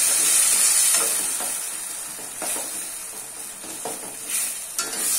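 Tomato purée frying in hot oil with onions in a steel kadai, sizzling as it is stirred and scraped around the pan with a spatula in several strokes. The sizzle is loudest at first and dies down after a second or two. This is the purée cooking down until the oil separates.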